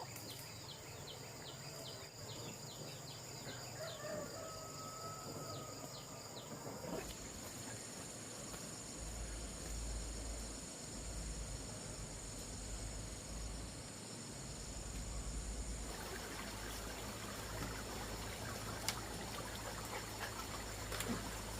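Outdoor ambience of insects: a steady high-pitched buzz with rapid repeated chirping in the first few seconds. A low rumble joins later.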